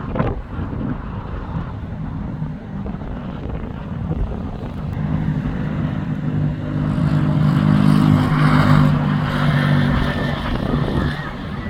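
Street traffic with a motor vehicle's engine running steadily close by. It grows louder about halfway through, is loudest around eight seconds in, then fades. There is a short knock at the very start.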